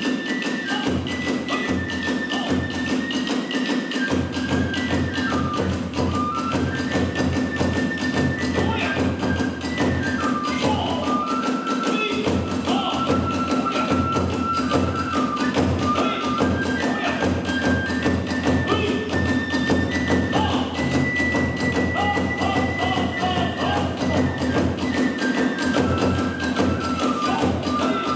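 Kagura hayashi ensemble playing: a bamboo transverse flute carries a melody of held notes stepping up and down, over rapid, continuous drum beats with hand cymbals.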